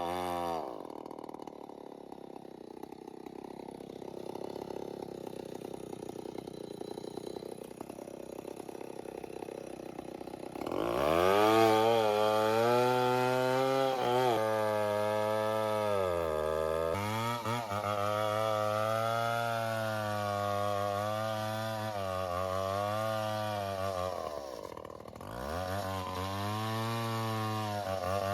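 Two-stroke chainsaw cutting a log: it runs quieter for the first third, then is throttled up to high revs, its pitch dipping and recovering as it cuts. Near the end it eases off briefly and then revs up again.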